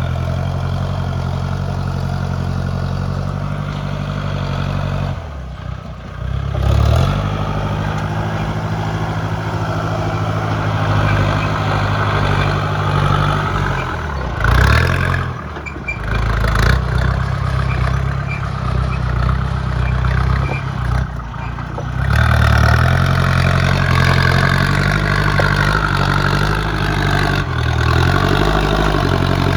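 Tractor engine running during field work, its pitch rising and falling with load and throttle, breaking off and changing abruptly several times.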